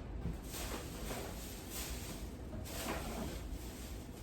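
Groceries being handled while a refrigerator is stocked: a few soft rustles of plastic packaging and light knocks as items are set in place.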